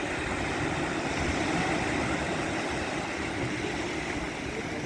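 Wind buffeting the microphone with a low, uneven rumble, over a steady rushing noise.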